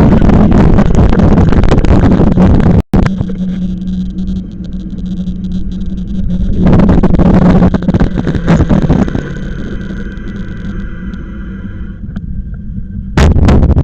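Wind rushing over the microphone of a camera on a moving e-bike, loud and gusty, with a steady low hum underneath. It cuts out abruptly about three seconds in, then comes back in loud gusts twice.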